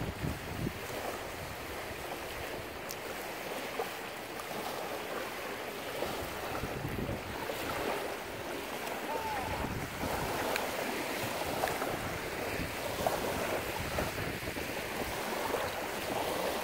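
Wind blowing across a lake with small waves lapping at the shore, and the wind rumbling on the microphone.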